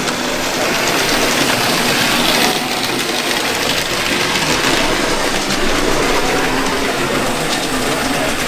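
Busy exhibition hall with steady crowd chatter, mixed with the running of model trains on the layouts.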